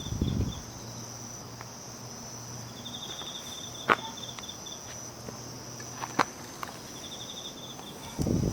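Autumn insects calling: a steady high trill runs throughout, and a pulsed chirping trill of about a second recurs every four seconds or so. Two sharp clicks cut in near the middle, and low scuffing sounds come at the start and again near the end.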